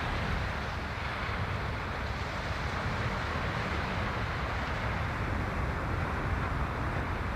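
Steady seaside ambience: an even wash of sea surf on the stones, with a low rumbling underneath.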